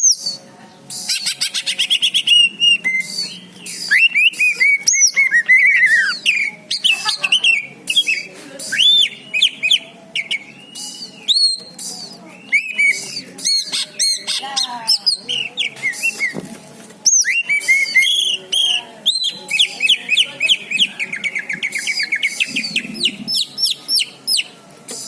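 Cucak ijo (green leafbird) singing a long, varied song of quick whistled sweeps and rapid trilled runs, with a short pause in the middle.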